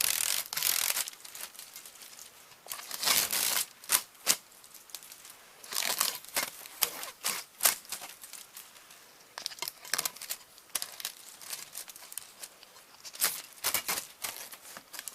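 Crinkling and rustling of damaged VHS tape being pulled and handled, in irregular bursts.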